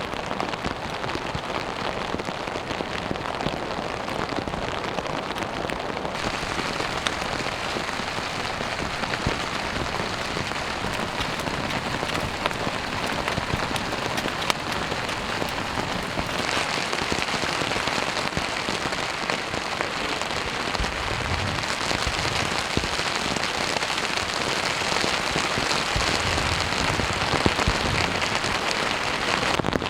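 Steady rain falling, with scattered drop impacts. The sound of it gets abruptly brighter about six seconds in and again about sixteen seconds in.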